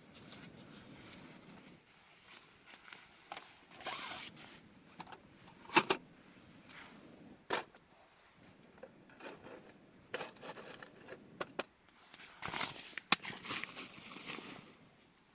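Camping gear being rummaged through and handled: irregular rustling, scraping and zipper-like sounds, with a few sharp clicks, the loudest a little under halfway through.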